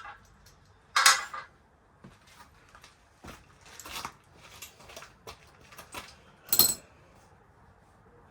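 Metal parts and tools clinking and knocking while a motorcycle part is handled and fitted. Three sharper, louder clanks come at the start, about a second in and near the end, with lighter clinks between, then it falls quiet.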